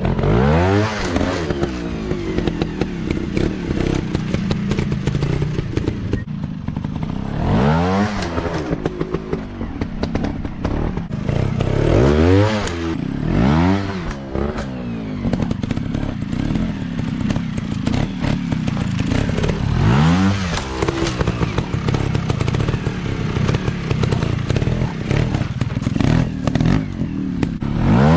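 Dirt bike engines running, revving up and falling back about six times in quick throttle bursts over a steady engine note, with frequent clatter and knocks throughout.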